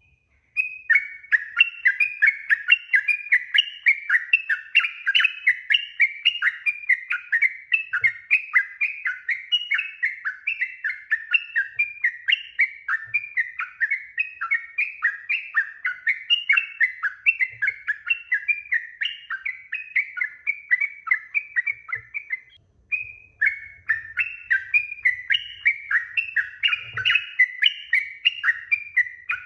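Yellow-vented bulbul (trucukan) singing a long, fast run of short chattering notes, several a second. The song breaks off briefly about 22 seconds in, then resumes.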